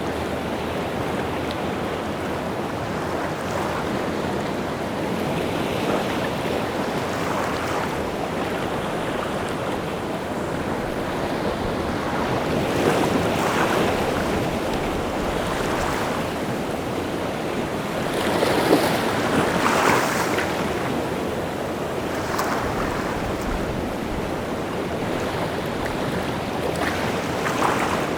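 Rough sea surf washing and breaking without pause, with louder crashes of breaking waves about halfway through and again about two-thirds in.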